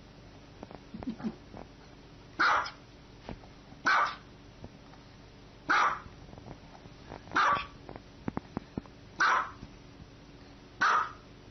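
A small white dog barking six times in short, sharp, high-pitched barks, one every second and a half or so.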